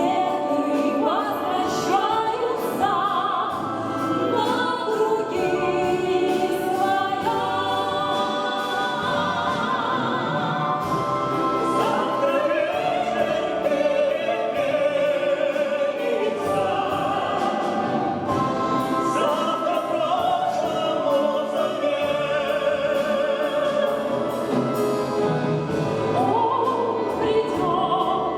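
Several singers singing a song together in harmony over instrumental accompaniment.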